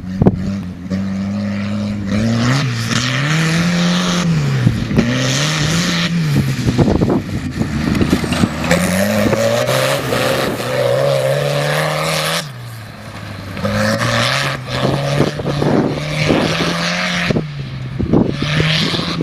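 Tractor engine running hard, its pitch rising and falling over and over as it revs, with scattered knocks and rattles. It eases off briefly about twelve seconds in, then picks up again.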